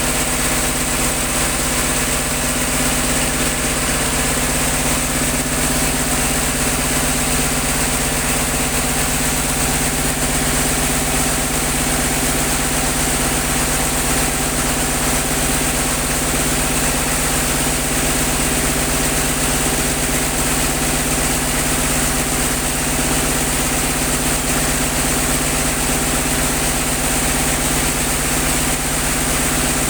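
Engine-driven air compressor running steadily at constant speed while flushing out a borewell, with a steady hiss over the engine note.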